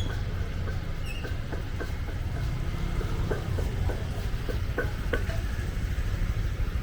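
City street ambience: a steady low traffic rumble with scattered short clicks and brief chirps over it.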